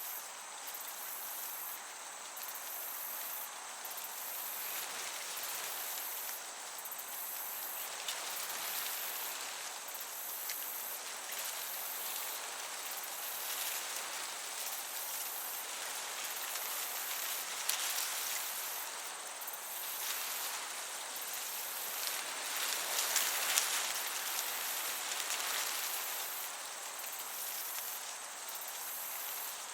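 Field crickets chirping steadily in a high, pulsing trill, over a gentle breeze rustling through meadow grass. The breeze swells for a few seconds about two-thirds of the way through.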